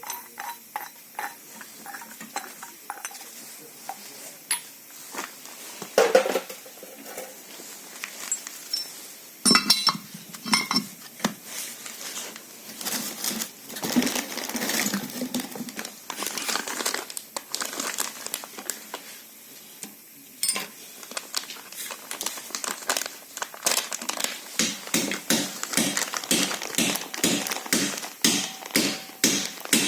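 Metal parts and hand tools clinking and knocking while a KNORR brake caliper is worked on. Near the end, a run of regular taps, about two or three a second.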